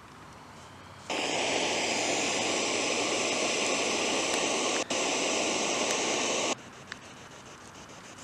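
Steady static hiss from a spirit box played through its loudspeaker, switching on abruptly about a second in and cutting off suddenly about five seconds later, with one brief dropout partway through.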